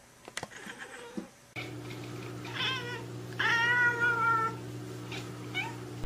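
A domestic cat meowing twice, a short meow then a longer, louder one, over a steady low hum. A few faint clicks come before the meows, and small chirp-like sounds follow near the end.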